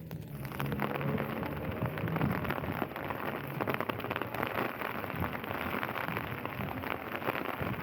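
Rain falling, with many drops striking a surface close by. It comes in suddenly just after the start and then goes on steadily.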